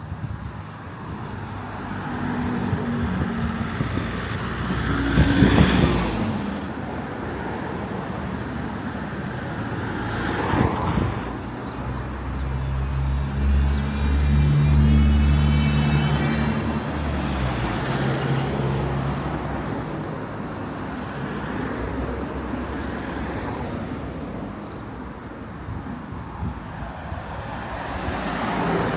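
Street traffic: several cars pass one after another, and near the middle a heavier vehicle's engine runs close by for several seconds with a low, steady drone.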